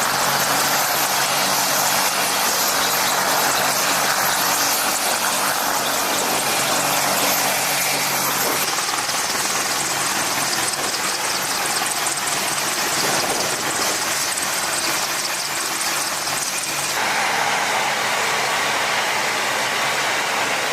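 Apache attack helicopter's turbine engines and rotors running steadily, a loud whine and rush with a low hum beneath. The sound shifts abruptly twice.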